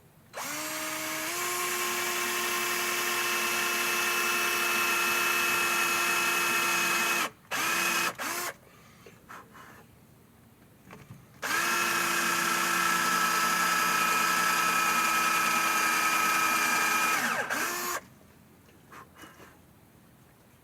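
Electric drill motor running in two long runs of about seven and six seconds, with two short blips of the trigger between them. Each run whines up in pitch as it starts and winds down as it stops.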